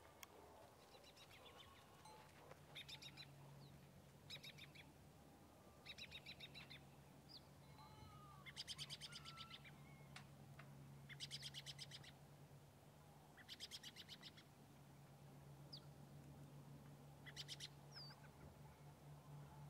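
A small bird calling in short bursts of rapid chattering notes, repeated every couple of seconds, with a few single chirps between. A faint steady low hum sits underneath.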